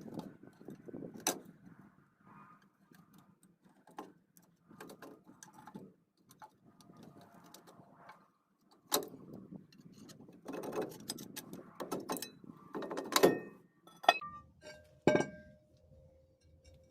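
Hand tools and steel brake parts clinking and knocking irregularly while drum brakes are taken apart, with a few sharper metallic clanks that ring briefly near the end.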